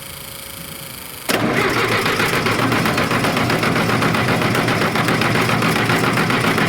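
Four-cylinder diesel engine of an International 270A backhoe being cranked on the starter, a fast even churning that starts abruptly about a second in, after a low steady hum. The engine does not fire: the injector lines are cracked open to bleed air, and the cranking pushes fuel through to the injectors.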